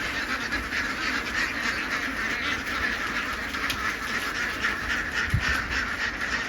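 A large flock of laying ducks quacking all at once, a steady mass of overlapping calls. There is a single low thump about five seconds in.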